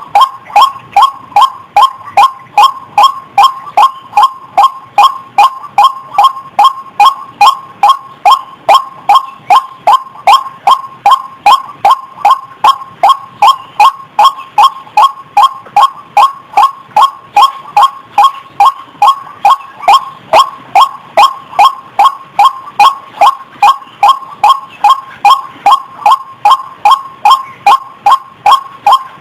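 White-breasted waterhen calling: a steady, unbroken string of short, loud notes, about two a second, each dipping slightly in pitch.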